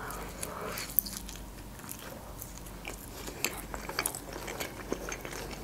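Close-up chewing of a bite of fried khinkali (Georgian dumpling): a string of small crunches and wet clicks as the fried dough and filling are chewed, with a sharper click about a second in.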